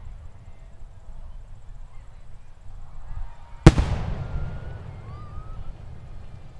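A single loud firework shell bursting over the water about halfway through, its bang trailing off in a long echoing decay. A steady low rumble lies underneath.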